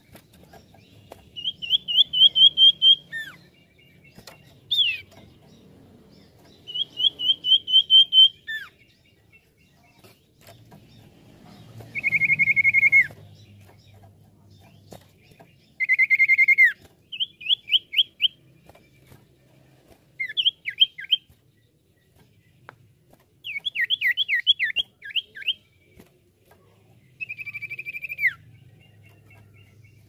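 Common iora (cipoh) singing in separate phrases a few seconds apart: fast trills of high notes, drawn-out buzzy whistles that slur downward at the end, and quick runs of down-slurred notes.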